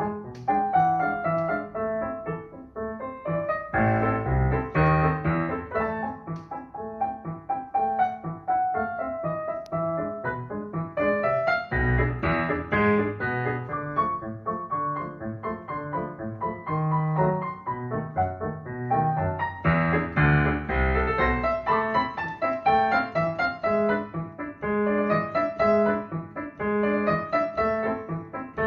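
Solo piano playing a melody over chords, with heavier bass chords about four, twelve and twenty seconds in.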